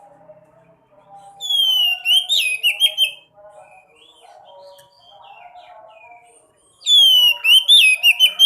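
Sekoci birds singing: two loud bursts of sharp whistled notes, each about a second and a half long, with fast falling and rising glides. Between and beneath them runs a quieter, continuous lower warbling.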